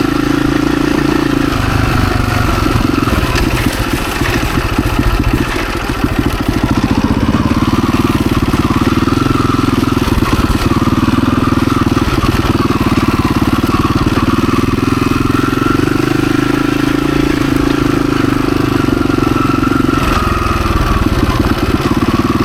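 Husaberg FE 350 single-cylinder four-stroke dirt bike engine running under way, its revs rising and falling as the bike is ridden, with a brief drop in revs about five seconds in.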